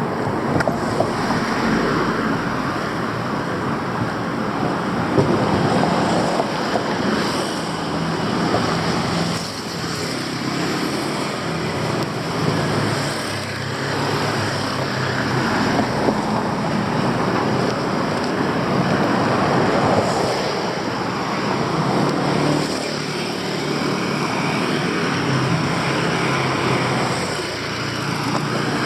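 Street traffic noise: engines of passing vehicles and tyre noise making a steady din that swells and eases as vehicles go by.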